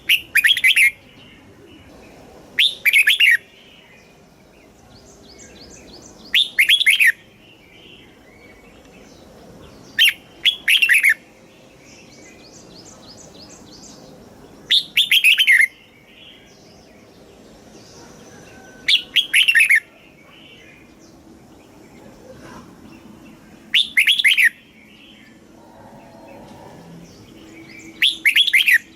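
Red-whiskered bulbul singing loud, short whistled phrases, each about a second long, repeated roughly every four seconds, with faint chirping between the phrases.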